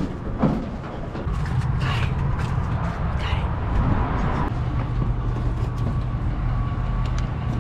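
Low, steady vehicle rumble that sets in about a second in, with a few short gliding sounds over it early on and a faint steady whine in the second half.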